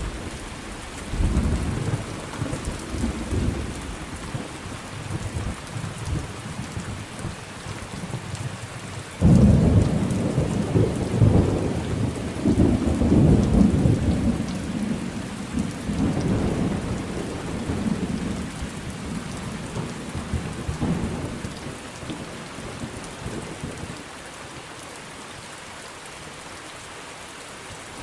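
Thunderstorm: rain falling steadily under rolling thunder. About a third of the way in a loud clap of thunder breaks suddenly and rumbles on for several seconds before dying away, leaving only the rain near the end.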